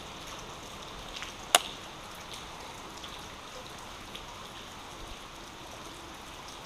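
Steady hiss of rain and flowing creek water, with one sharp click about a second and a half in.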